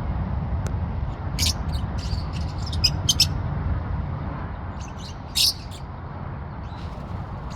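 Pet parrot giving short, sharp chirps and squeaks in scattered clusters, over a steady low rumble.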